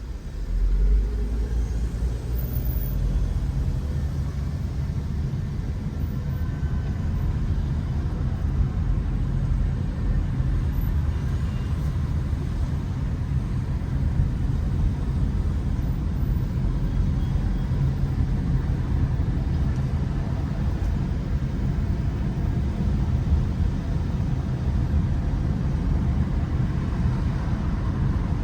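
Car driving on city streets: a steady low rumble of engine and tyre noise.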